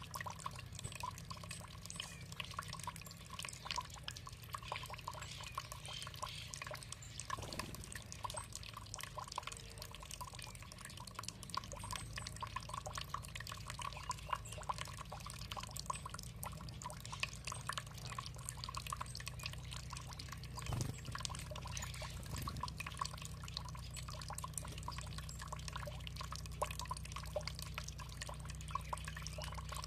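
Water trickling and dripping: a steady, dense patter of small drops over a low, even rumble.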